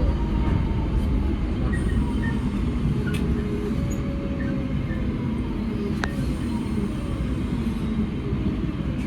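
Electric passenger train running on rails: a steady low rumble with a faint whine drifting slowly down in pitch, and a few sharp clicks.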